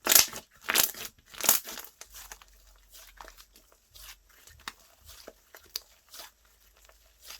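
Slime being pressed and worked by hand, with three louder presses in the first two seconds and then a run of small crackling pops and clicks.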